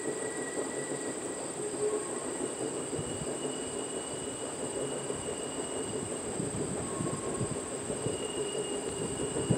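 Insects buzzing steadily at a high pitch over the low rumble of a distant approaching steam train, growing louder near the end.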